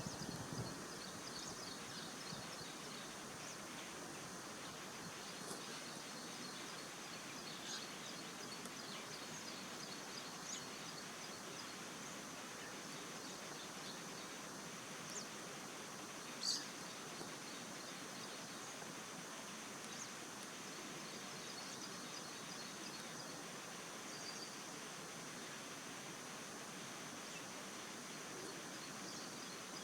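Faint, steady high insect buzzing with rapid pulsed ticking, and a few short, high bird chirps scattered through it, the sharpest about sixteen seconds in.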